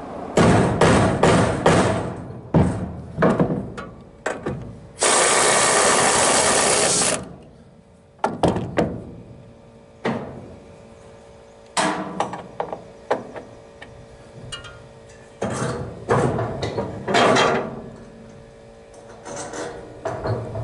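Tool work on a trailer: irregular runs of knocks and clanks, with a steady two-second rush of noise about five seconds in.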